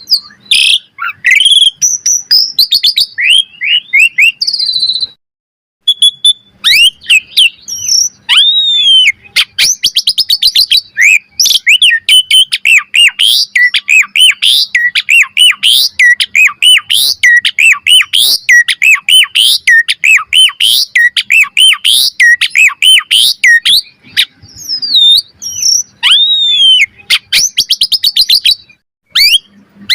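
Asian pied starling (jalak suren) singing a loud, fast, varied song of whistles, chatters and clicks, with a short pause about five seconds in, then a dense run of rapid notes.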